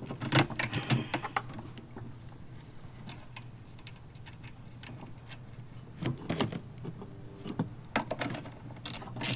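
Hands handling wiring and a circuit breaker's plastic cover: scattered clicks, taps and rattles, in a cluster about a second in and again in the last few seconds.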